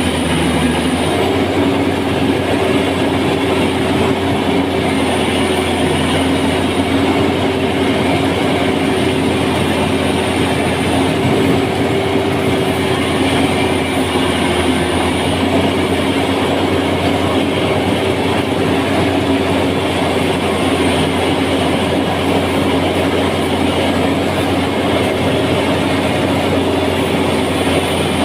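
A machine engine running steadily at a constant speed, a loud, unbroken mechanical noise with a low steady hum.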